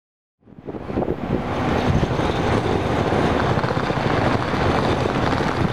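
Hikari Shinkansen high-speed train running: a steady rumbling rush that fades in about half a second in.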